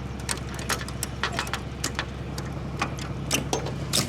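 Dump truck engine running steadily at low revs, with a dozen or so irregular sharp clicks and ticks over it.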